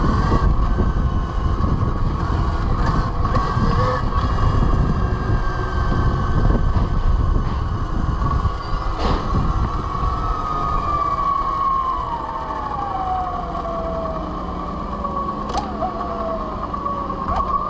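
Velimotors VMX12-F electric motorcycle riding, its motor and drivetrain giving a steady high whine with a low rumble of wind and road noise. The whine's pitch falls over the last several seconds as the bike slows.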